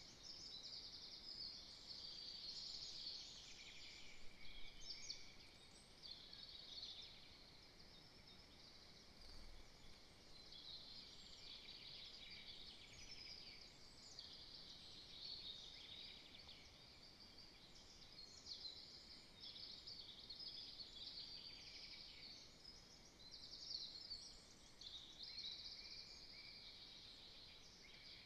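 Faint chorus of small songbirds: many overlapping high chirps and trills running continuously, with no single call standing out.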